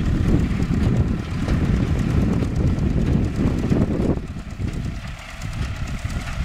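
MTZ-5 tractor's diesel engine running under load while driving a hay baler. The noise drops back for the last couple of seconds.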